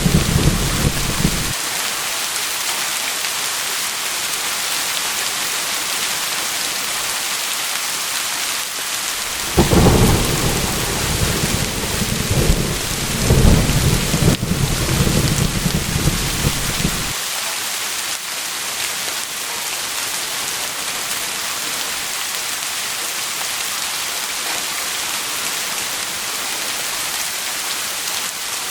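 Steady heavy rain hiss with rolling thunder: a rumble dies away in the first second or two, another rolls in about ten seconds in and lasts some seven seconds, and a third begins at the very end.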